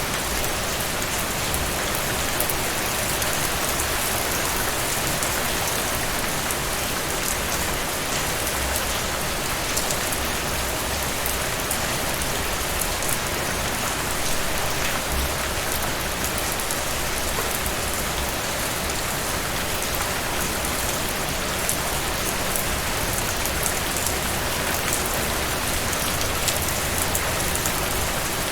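Steady heavy rain falling, a dense even hiss with scattered drop ticks.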